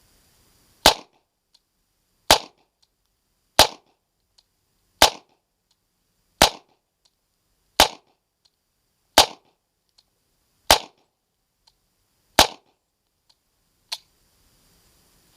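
USFA Zip 22 .22 pistol firing nine shots, evenly spaced about one and a half seconds apart, every round cycling without a malfunction. A much softer click follows near the end.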